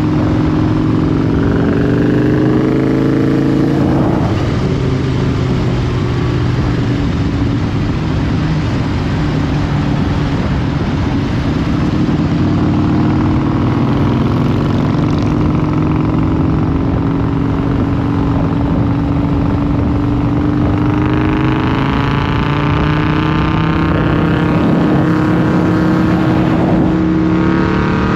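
Motorcycle engine running steadily on the road, its pitch drifting gently up and down with speed, over wind and road noise.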